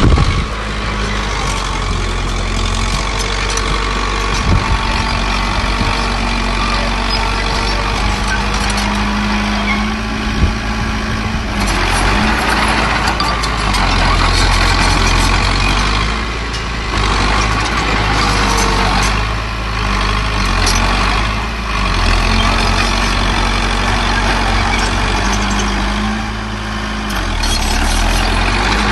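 Diesel engines of a small bulldozer and dump trucks working at a fill site, running steadily with the engine note shifting and dipping briefly a few times.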